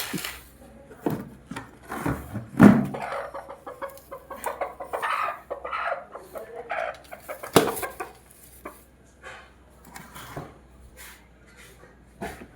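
Broody hen clucking in short, broken calls, with a few sharp knocks, the loudest about two and a half seconds in and another at about seven and a half seconds.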